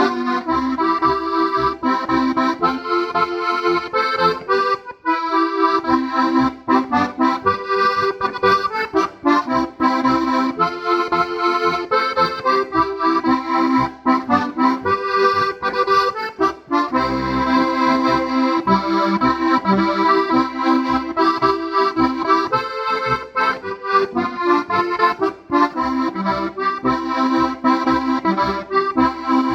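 Strasser Styrian button accordion (steirische Harmonika) in G-C-F-B tuning playing an Alpine folk tune: the melody over a pulsing bass-and-chord accompaniment, with a brief break about five seconds in.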